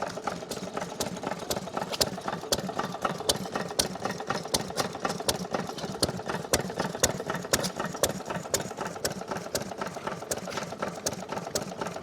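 BW Bartram stationary petrol engine, about 2 horsepower and built by Callan Lewis, running steadily with a quick, even run of sharp beats several times a second.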